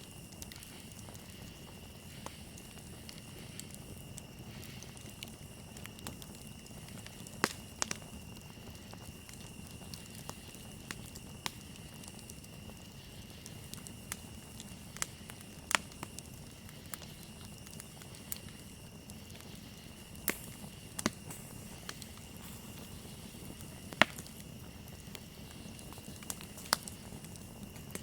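Campfire crackling, with sharp pops at irregular intervals (the loudest near the end) over a low, steady rumble of burning wood. Crickets trill steadily throughout.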